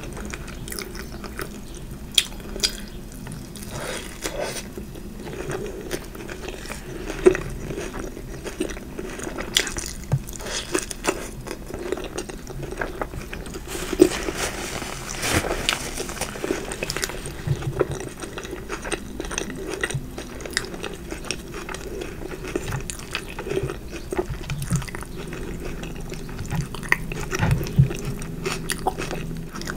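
Close-miked eating: biting and chewing fried food, with many short sharp clicks and crunches.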